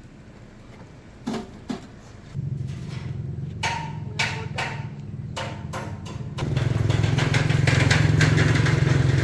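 A small engine idles with a steady low hum. It comes in about two seconds in and gets louder about six seconds in. Two sharp knocks come just before it, and a few short clattering noises sound over it.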